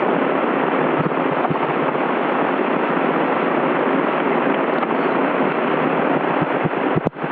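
Steady cockpit noise of a Cessna 172 in flight, engine and rushing air, heard through the headset intercom as an even hiss. Near the end the hiss briefly drops out, with a few low thumps.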